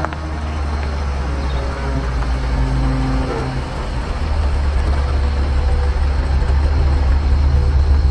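A car's engine running as the car drives slowly forward: a steady low rumble that grows louder about four seconds in.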